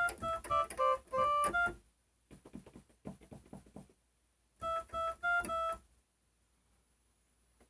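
Electronic keyboard playing two quick bursts of short, bright high notes in a novelty voice, with faint key tapping between them; the playing stops about six seconds in.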